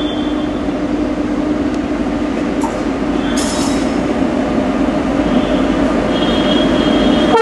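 WAP-7 electric locomotive hauling a passenger train as it approaches: a steady rumble of wheels on rail with a low steady hum, growing slowly louder. A brief high screech of wheels about three and a half seconds in.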